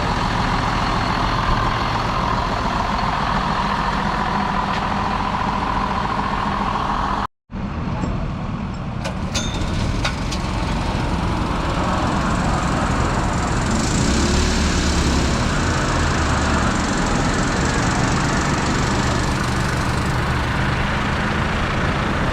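John Deere 6R 175 tractor's diesel engine running steadily, heard from the cab while driving, with a brief total dropout about seven seconds in.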